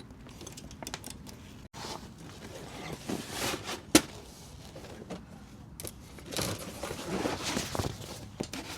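Irregular rustling and handling noises with scattered clicks, and one sharp knock about four seconds in.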